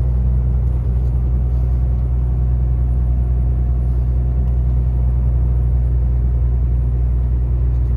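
Volvo truck's diesel engine pulling steadily under load up a long grade, a constant low drone heard from inside the cab.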